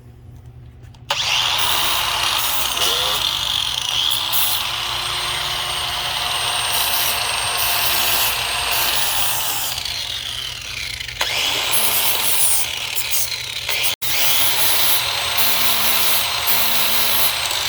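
Angle grinder with a flap disc starting up about a second in and grinding paint off the metal hamper frame: a loud, continuous grinding noise with a steady high motor whine.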